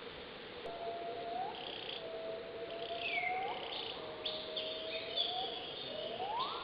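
Forest animals calling before dawn: about four long whistled calls in a row, each rising slowly and then sweeping sharply upward at its end, over higher chirping birds and a steady background hiss.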